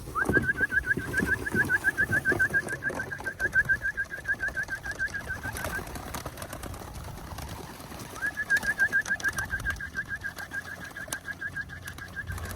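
A bird trilling: a fast, even run of identical rising chirps, about seven a second, lasting some five seconds, then a second run after a short pause.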